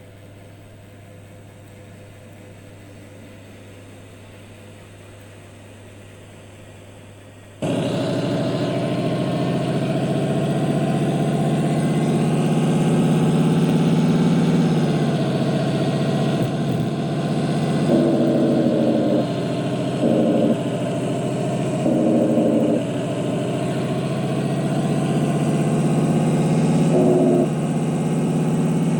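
A low steady hum, then about a quarter of the way in a sudden switch to a heavy truck engine running loud under way. Its pitch climbs slowly, dips around the middle and climbs again. Four short bursts of a higher tone are laid over it in the second half.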